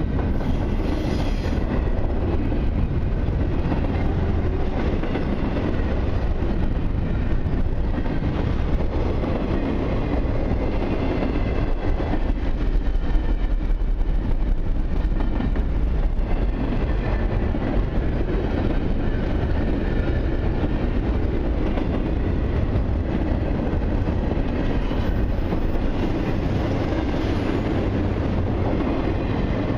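A long intermodal freight train rolling steadily past at close range, its steel wheels running on the rails in a continuous loud rumble.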